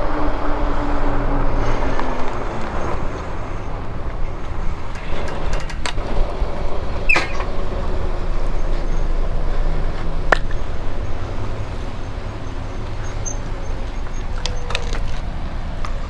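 Road and wind noise from riding e-bikes slowing to a stop, with traffic around. A falling whine over the first few seconds, then scattered sharp clicks and knocks.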